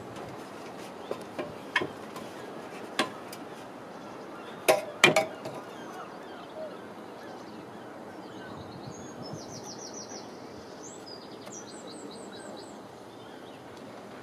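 A few sharp knocks and taps from timber building work, loudest in a quick cluster about five seconds in. Then a small bird sings a couple of short, high trilled phrases over steady outdoor background noise.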